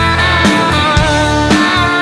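Country-rock band playing an instrumental passage: electric guitars over bass and a steady drum beat, about two beats a second.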